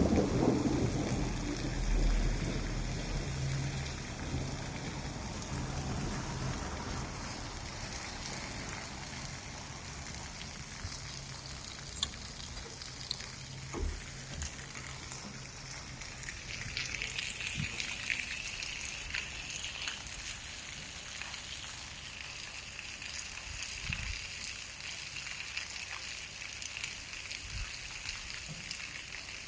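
Steady rain falling during a thunderstorm, with a rumble of thunder dying away over the first few seconds. A few single drops or taps land sharply now and then.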